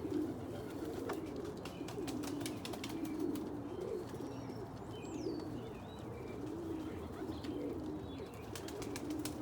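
Domestic pigeons cooing in a loft, overlapping low coos repeating throughout, while a cock bird courts and mates with a hen. Scattered sharp clicks run through the middle and near the end, with a brief high chirp about halfway.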